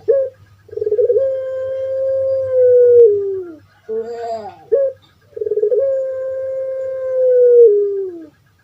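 Puter pelung, a long-calling ringed turtle dove (Streptopelia risoria), cooing twice. Each call opens with a few short falling notes and then holds one long drawn-out coo for nearly three seconds, which slides down in pitch at its end.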